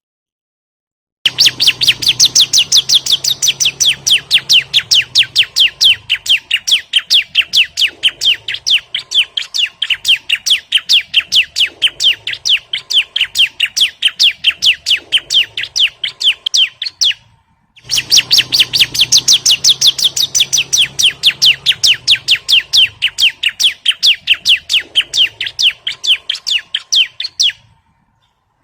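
Bar-winged prinia (ciblek) calling in a fast, steady series of sharp chirps, about five a second, in two long runs with a short break between them. It is a recorded call used as a lure to set caged birds singing.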